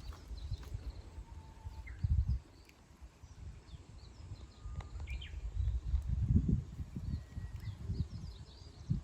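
Birds chirping faintly with short scattered calls and a few brief whistled notes, over low rumbling gusts of wind on the microphone that swell about two seconds in and again in the second half.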